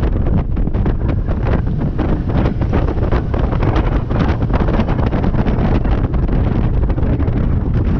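Wind buffeting the microphone on board a Christina 25 motorboat under way, over a steady low rumble of the engine and the hull running through the water.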